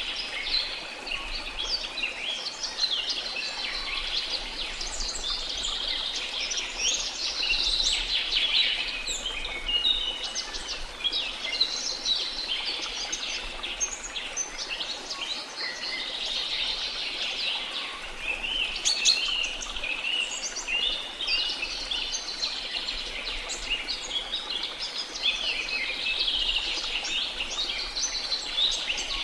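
A dense chorus of jungle birds chirping and trilling, many calls overlapping, over a faint steady rush of falling water.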